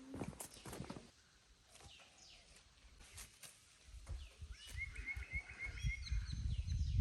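A small bird calls a quick run of about six high chirps about five seconds in, over low rumbling outdoor noise; a few soft knocks, like footsteps, in the first second.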